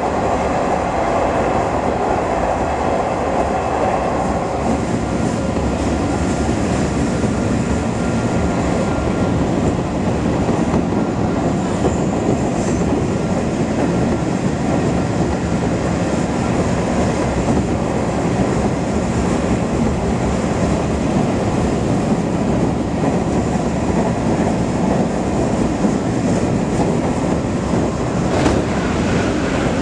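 Inside a JR Keiyo Line commuter train running at speed: a steady rumble of wheels on rails, with a higher whine that fades out over the first few seconds. A brief click comes near the end.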